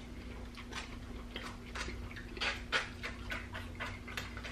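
Close-up eating sounds: chewing with wet mouth clicks and lip smacks, an irregular run of short clicks a few times a second, loudest about halfway through.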